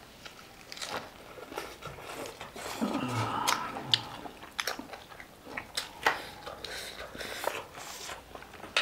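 A person chewing and biting food, with sharp mouth clicks and crunches coming at uneven intervals.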